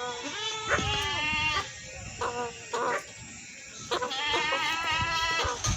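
Goats bleating: several wavering calls, some overlapping, with a long bleat at the start and another from about four seconds in, and short ones between.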